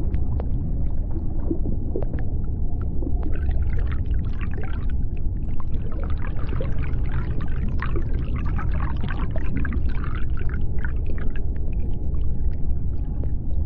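Underwater sea ambience: a steady deep rumble with scattered sharp clicks. For most of the stretch there is a cluster of higher squeaks and chirps.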